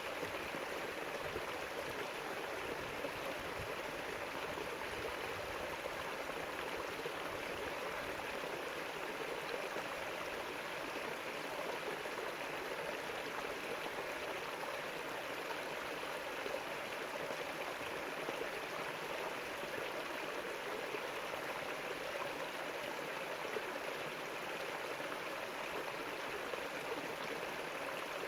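River water flowing over stones, a steady rushing and babbling with no breaks.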